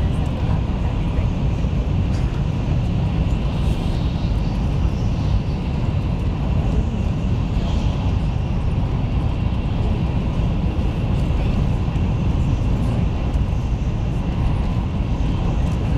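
Taiwan High Speed Rail 700T train running at speed: a steady low rumble and rush of noise with faint high tones over it.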